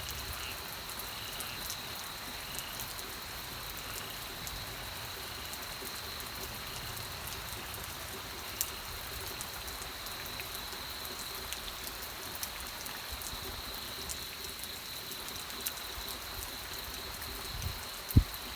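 Steady rain falling, with scattered individual drops ticking sharply and a faint steady high tone underneath. A single loud low thump comes just before the end.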